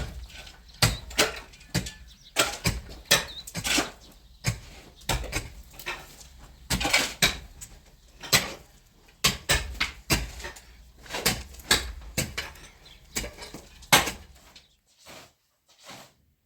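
Irregular hard knocks and clatter, about one to two sharp hits a second, which stop near the end.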